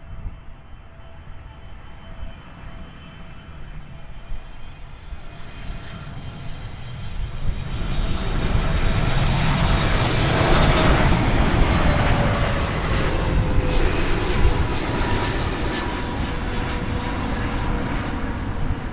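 Airliner passing close by. Its engine noise builds to a peak about halfway through, and a whine drops in pitch as it goes by, then eases off.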